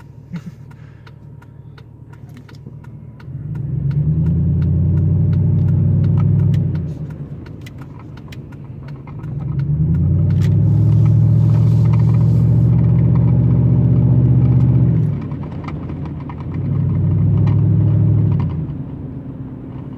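Pickup truck's engine and exhaust heard from inside the cab, swelling into a loud, deep drone three times as the throttle is pressed and easing back to a low rumble in between. Light rattling and clicking runs throughout.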